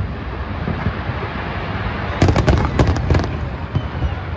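Aerial fireworks going off: a continuous low booming rumble, and about two seconds in a quick run of sharp crackling reports lasting about a second.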